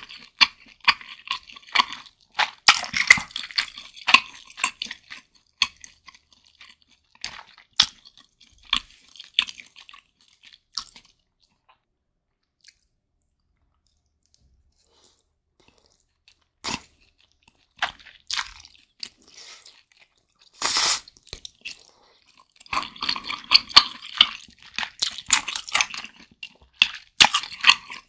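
Close-miked chewing and wet mouth sounds of someone eating soupy instant ramen noodles. The chewing thins out and stops for several seconds about halfway through, then a few isolated mouth sounds come before steady chewing resumes near the end.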